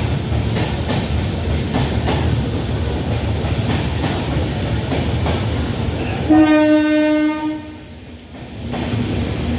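Express train running with a steady rumble and wheels clacking over rail joints. About six seconds in, the locomotive horn gives one blast of about a second and a half, the loudest sound; the rumble then briefly drops away and returns.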